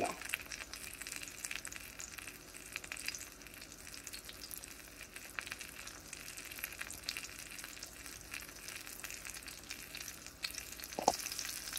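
Breaded chicken cordon bleu shallow-frying in oil in a stainless steel pan: a quiet, steady sizzle with fine crackles, the oil at medium heat. One short, sharp sound comes near the end.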